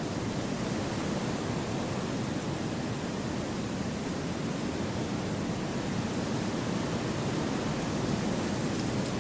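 Gentle wind blowing through forest trees: a steady, unbroken rush with no distinct gusts, fuller in the low end.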